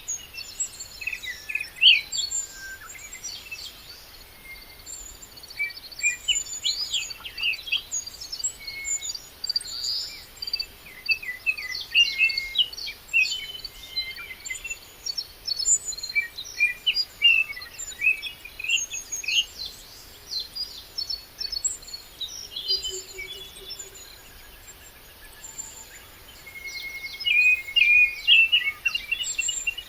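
A chorus of songbirds chirping and warbling with short, quick phrases throughout, and a high repeated chirp running along above them. It thins out briefly a little past the middle, then picks up again with a burst of song near the end.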